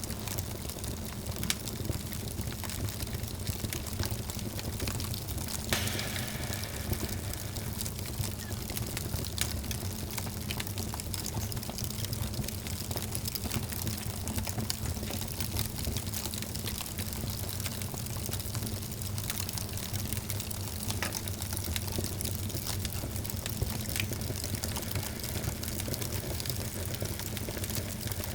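Wood fire burning in a fireplace, crackling with frequent small pops over a steady low rumble of the flames, with one sharper crack about six seconds in.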